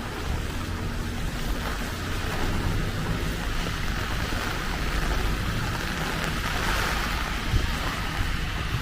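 Heavy rain falling steadily, with strong wind rumbling on the microphone. A short thump comes about seven and a half seconds in.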